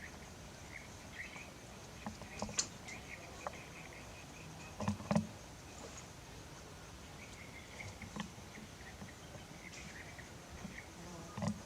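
Steady high-pitched insect drone, like crickets, with scattered small clicks, faint brief chirps and a couple of soft knocks; the loudest knock comes about five seconds in, another near the end.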